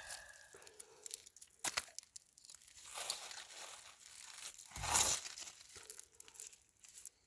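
Close crinkling and rustling handling noise with scattered small clicks, and a louder rustle with a dull thump about five seconds in.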